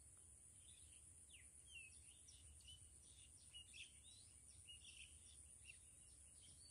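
Faint bird chirping: a quick run of many short chirps and twitters, some sliding down in pitch, starting about a second and a half in, over a steady high hiss.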